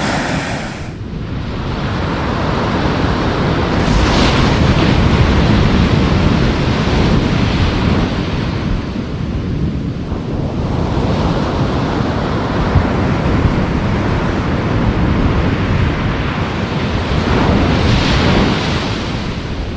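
Waves breaking and washing on a beach, with wind buffeting the microphone; the surf swells louder about four seconds in and again near the end.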